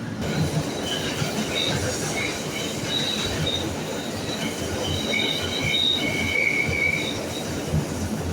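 R160A subway train running between stations, a steady rumble of wheels on rail with high-pitched wheel squeal. Several squealing tones come and go from about a second in until near the end.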